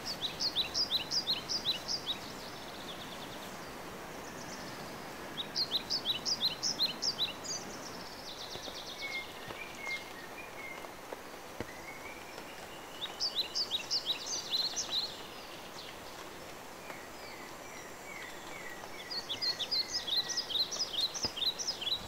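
A songbird sings the same short phrase of quick, falling high notes four times, about every five to six seconds, with softer lower calls in between, over a steady hiss of forest background.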